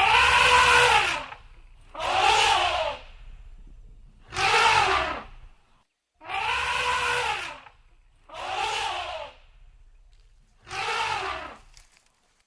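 An animal calling six times, each drawn-out call about a second long, rising then falling in pitch, with short pauses between.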